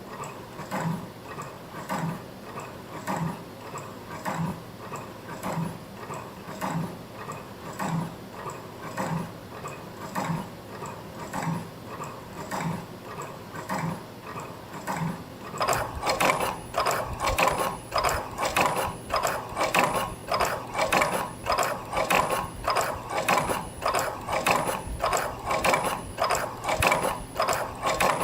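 CNC spring-forming machine (YHM NTF-1) making torsion springs from 0.2 mm wire: a mechanical clicking and clatter that repeats about once a second. It gets louder and busier about halfway through.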